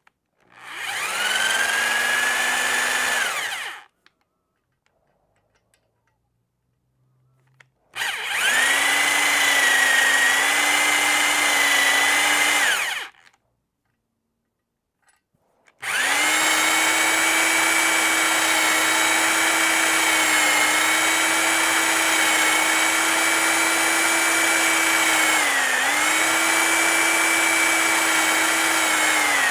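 Electric drill spinning a cylinder hone in an outboard engine's cylinder bore, enlarging the bore toward its target size. It runs in three goes: two short runs of a few seconds, each spinning up at the start, then a longer steady run that dips briefly in speed twice near the end.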